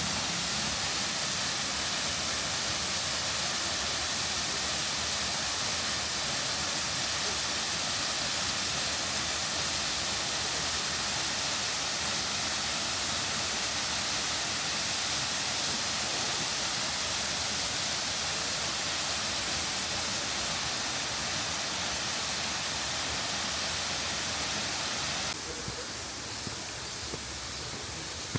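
Waterfall, a steady rushing hiss of falling water. About 25 seconds in it drops a little in level and sounds thinner.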